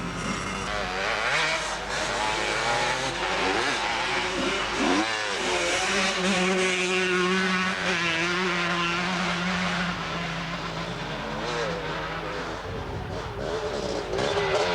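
Several motocross motorcycle engines revving up and down at once, their overlapping pitches rising and falling. Around the middle, one engine holds a steady note for a few seconds.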